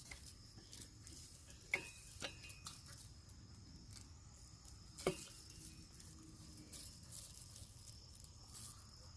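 Quiet, with a few faint short clicks and knocks, the clearest about two seconds in and about five seconds in.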